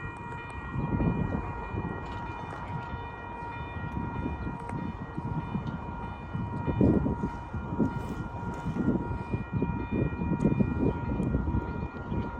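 A train passing, with low rumbling and clatter that swells and fades, over a continuous steady high tone held throughout.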